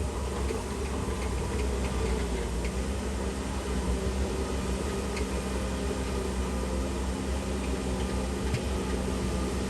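Heavy diesel construction machinery running steadily with a deep, even engine hum, with a few faint clicks scattered through.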